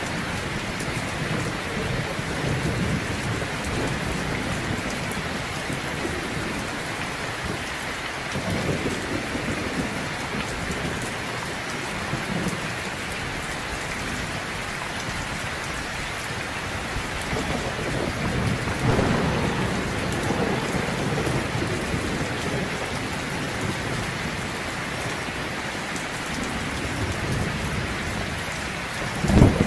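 Heavy rain falling steadily, with low rumbles of thunder rising a couple of times and a short, sharp, louder crack near the end.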